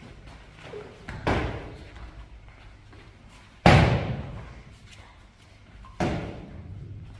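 Three loud, sharp slams about two and a half seconds apart, each fading out over about half a second.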